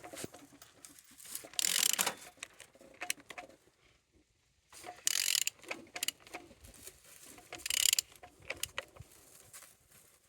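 An engine's crankshaft is turned over by hand with a ratchet wrench, clicking as the handle is swung back. It comes in three bursts, about 2, 5 and 8 seconds in, with scattered clicks between. The engine turns freely, not seized.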